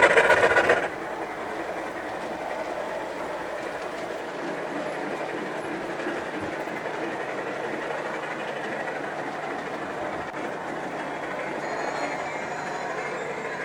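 Model train running on the layout: a steady rolling rumble and clatter of wheels on track. A louder sound cuts off suddenly about a second in.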